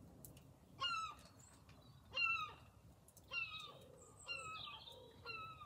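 A bird calling over and over: five short calls about a second apart, each sliding slightly down in pitch.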